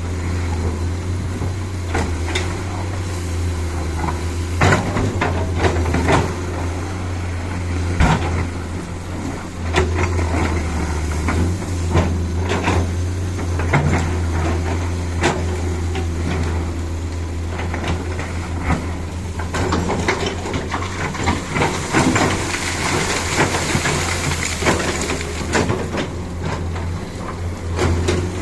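Dump truck's diesel engine running with a steady low drone, over it many knocks and clattering rattles. A hiss swells from about twenty seconds in and fades a few seconds later.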